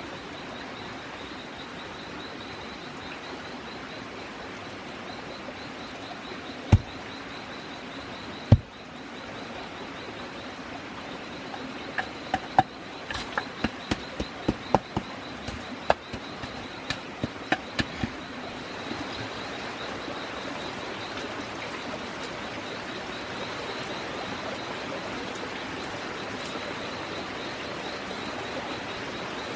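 Outdoor nature ambience: a steady, finely pulsing high chirring over an even rushing haze. Scattered sharp knocks and clicks come a few times, thickest in the middle.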